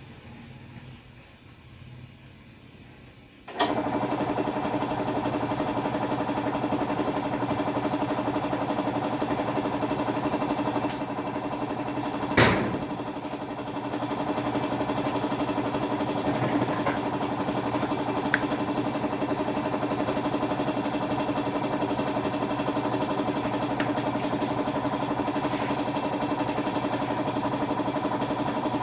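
A motor switches on abruptly about three and a half seconds in and runs steadily with a constant hum, with one sharp click near the middle.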